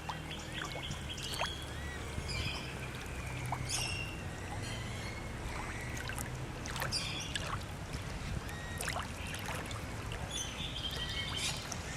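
Outdoor ambience: small birds chirping on and off over a steady low hum.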